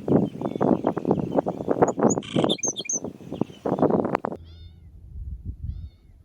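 Rapid crunching and rustling, like footsteps through dry brush and gravel, for about four seconds, then it stops suddenly. A few high bird chirps sound over it in the middle and faintly near the end.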